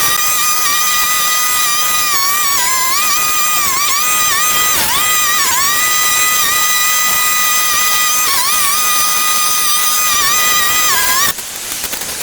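Small engine of a handheld clearing tool running at high revs: a steady high whine that dips briefly in pitch several times as the cutting takes load, then stops sharply near the end, followed by a rapid rattling crackle.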